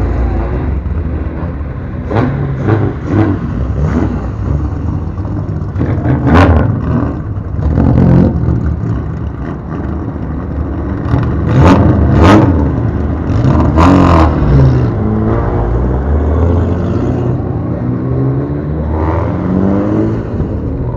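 Bosozoku-style modified car engines being blipped hard, sharp rev bursts rising and dropping over a loud, lumpy low idle. Near the end an engine's pitch slides up and down as a car pulls away.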